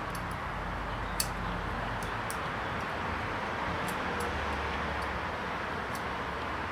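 A few light, sharp clicks of a thin steel oil-ring rail being wound by hand into the bottom groove of a new piston, over steady background hiss and a low hum.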